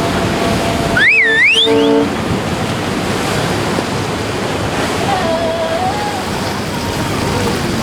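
Surf and wind noise rushing steadily at the inlet. About a second in, a loud whistle slides up, dips and climbs again before cutting off.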